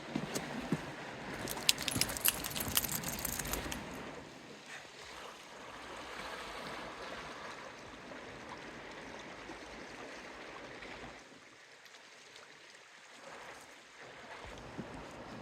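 Light metallic jingling, a quick run of small clinks for about two seconds, then a steady hiss that grows quieter for a few seconds near the end.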